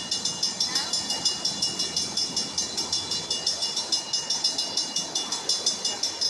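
Railroad warning bell ringing rapidly and evenly, about five strokes a second, with a steady high ring beneath the strokes.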